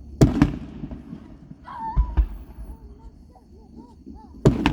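Fireworks exploding overhead: a loud sharp bang about a quarter second in and another near the end, each trailing off in a crackling echo, with two deep thuds about two seconds in.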